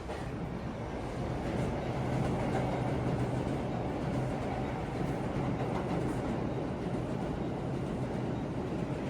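New York City Subway train on the Lexington Avenue Line moving at the station: a steady rumble with a low hum that is strongest in the first half.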